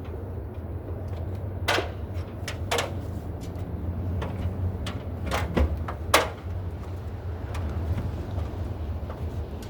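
A handful of sharp clicks and knocks, the loudest about six seconds in, over a steady low rumble.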